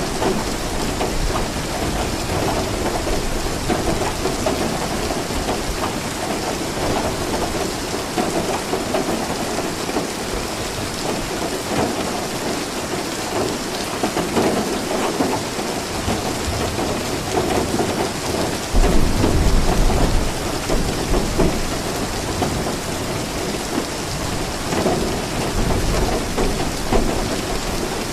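Steady rain falling, with a low rumble of thunder that comes in suddenly about two-thirds of the way through.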